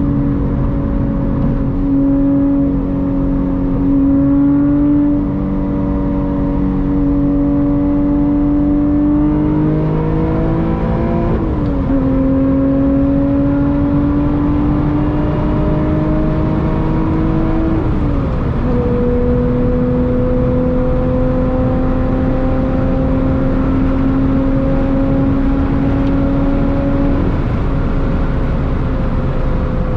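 Lotus Evora GT's supercharged 3.5-litre V6 with titanium exhaust, pulling in gear. The engine note climbs slowly and drops sharply twice, near the middle and again about two-thirds through, as the manual gearbox is shifted up. After the second shift it settles to a nearly steady note.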